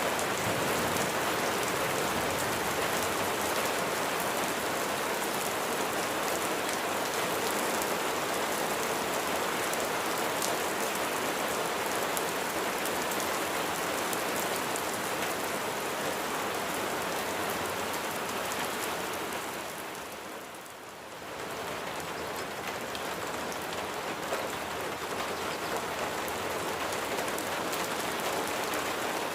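Steady rain falling on a surface, a dense, even patter of drops. The sound briefly fades and comes back about two-thirds of the way through.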